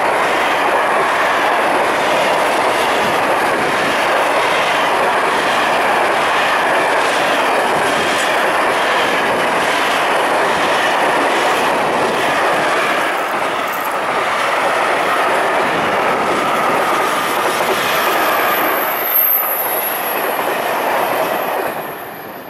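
Freight train of hopper and tank wagons rolling past close by: a steady noise of steel wheels on rails with regular clickety-clack over the rail joints. A thin high squeal rises near the end, and the sound falls away as the last wagon passes.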